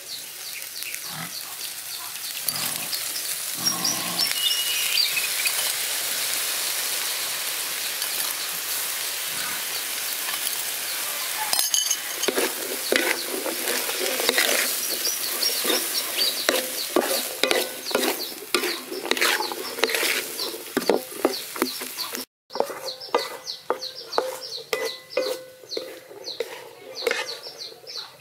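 Corn kernels sizzling in a hot metal wok, steady at first. About halfway through, a wooden spatula starts stirring and scraping the kernels against the metal in a run of short scrapes and knocks.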